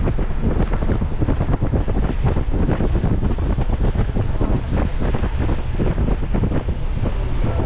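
Steady, loud wind buffeting on the microphone of a car being driven, mixed with low road rumble.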